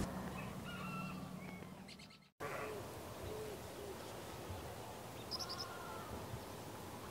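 Several short bird calls over a steady background hiss from a pot of water boiling hard over a wood fire. The sound drops out for a moment just over two seconds in.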